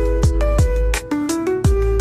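Lo-fi background music with a steady beat: deep kick drum hits over a held bass, crisp cymbal and snare hits, and a melody of short notes.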